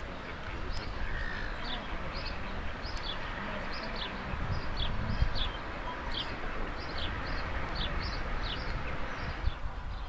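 Small birds chirping: a run of short high, falling chirps about twice a second, over a steady outdoor hiss and low wind rumble.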